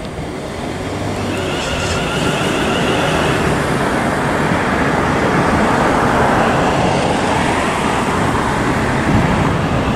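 Thameslink Class 700 electric multiple unit passing close beneath, a steady rushing run of wheels on rail that grows louder over the first few seconds and holds, with a faint high whine briefly about two seconds in.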